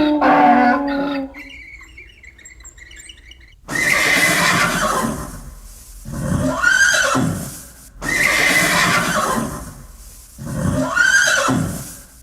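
Donkey braying: two hee-haw cycles starting a few seconds in, each a harsh rasping breath followed by a rising-then-falling call. A steady pitched tone fades out in the first second.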